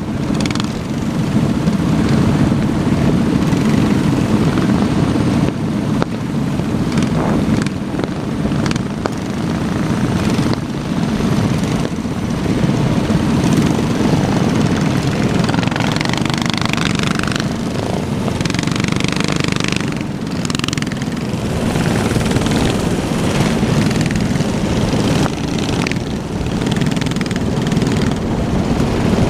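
Small minibike engines running, a steady drone with slight rises and falls in level.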